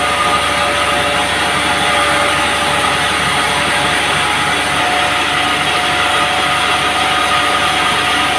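Band sawmill running steadily: a loud, even machine noise with a steady whine in it.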